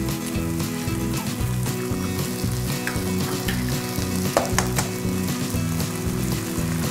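Oysters and chives sizzling steadily in hot oil in a nonstick pan as raw eggs are cracked in, with a sharp tap about four and a half seconds in. Soft background music runs underneath.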